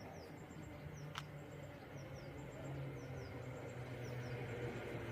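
Small birds chirping in short, high, falling notes over the low steady hum of a class 730 electric multiple unit, which grows louder towards the end. One sharp click about a second in.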